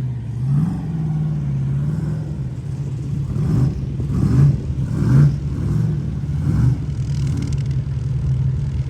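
A Jeep's LS V8 engine revving hard through a mud hole, its pitch rising and falling in repeated surges with the throttle.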